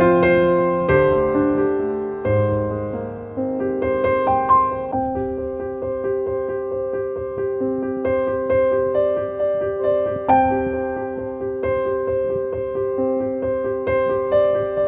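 Background piano music: a slow melody of repeated notes over sustained chords.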